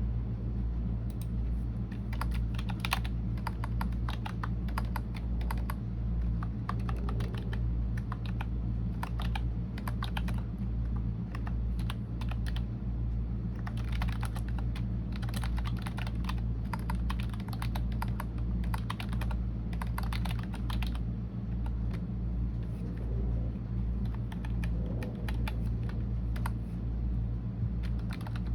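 Computer keyboard being typed on: irregular runs of quick key clicks with short pauses between them, over a steady low hum.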